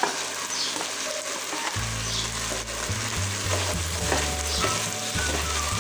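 Diced potatoes, onion and ham frying in oil in a pot, sizzling steadily while they are stirred and scraped through with a utensil.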